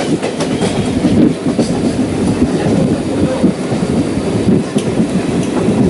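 Passenger train running at speed, heard from inside a carriage: a steady rumble of wheels on track with scattered sharp clicks from the rail joints.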